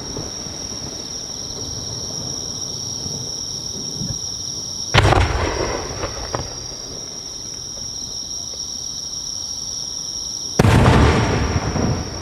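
Two Japanese No. 5 aerial firework shells bursting, two loud booms about five and a half seconds apart, each echoing away over about a second. A steady high tone runs underneath.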